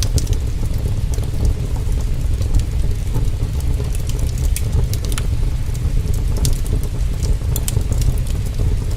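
Steady heavy rain with a deep, constant rumble underneath, and scattered sharp crackles and pops from a wood fire.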